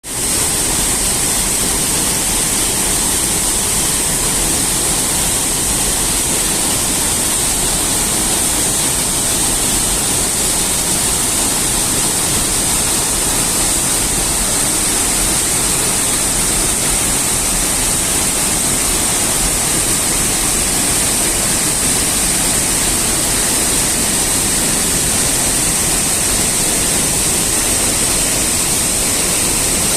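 Waterfall in a rainforest park, its falling water making a loud, steady rush that does not change.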